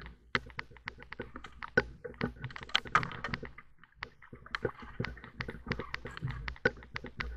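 Raindrops hitting the housing of a helmet- or boat-mounted action camera, making rapid, irregular light taps and clicks several times a second over a faint low rumble.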